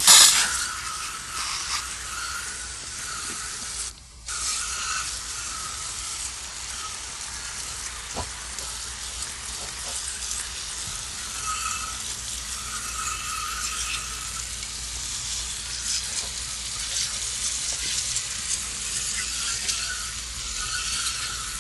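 Aerosol can of Nu-Calgon Evap Foam no-rinse coil cleaner spraying onto an evaporator coil in a long, steady hiss, with a brief break about four seconds in.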